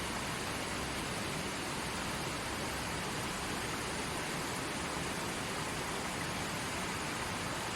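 Creek flowing: a steady, even rush of water with no breaks.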